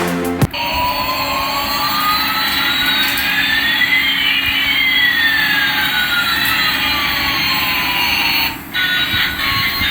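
Jet-engine sound: a steady rushing noise with two whistling tones, one rising and one falling, that cross about halfway through. It cuts in just after the start, replacing music, and gives way to music again near the end.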